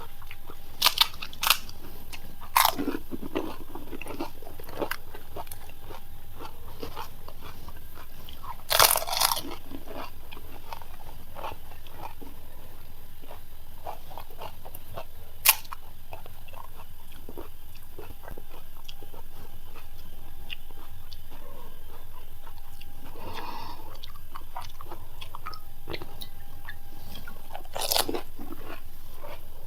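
Crisp panipuri shells crunching as they are bitten, then chewed: scattered sharp crunches, the loudest clusters around nine seconds in and near the end, over a steady low hum.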